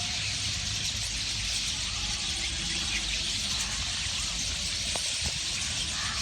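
A flock of small birds chirping together in a tree, many overlapping high calls forming a steady chatter.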